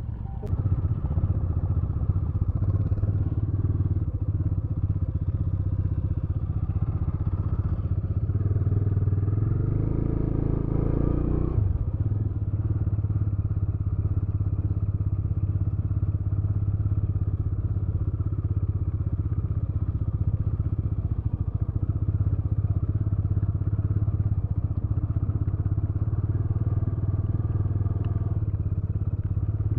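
Motorcycle engine running steadily under way. Just before the halfway mark the revs climb for a couple of seconds, then drop off abruptly as the throttle is closed, and the engine settles back to its steady note.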